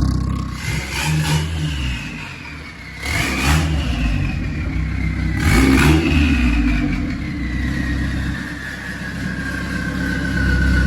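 A car engine running and revved in several short blips, about a second in, around three and six seconds in and again near the end, with a high whine that slowly falls in pitch.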